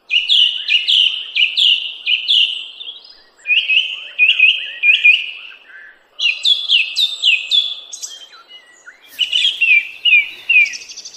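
A bird singing loudly: four phrases of short, quick, falling chirps, each phrase a second or two long with brief pauses between them.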